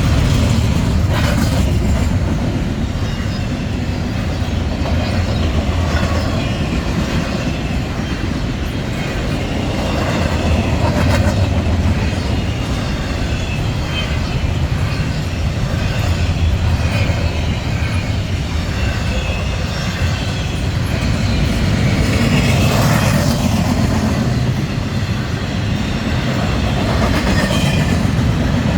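Norfolk Southern double-stack intermodal freight train rolling past: a steady heavy rumble of wheels on rail, with clicks now and then as the wheels pass over rail joints.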